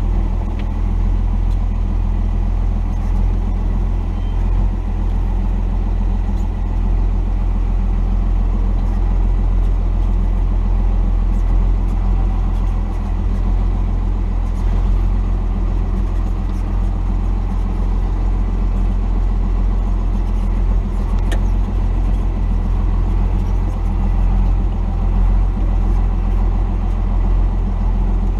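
The Cummins 5.9 turbo-diesel straight-six of a stock 1990 Dodge D250 pickup running steadily as the truck drives the trail, a low steady engine drone. A single sharp click comes about three quarters of the way through.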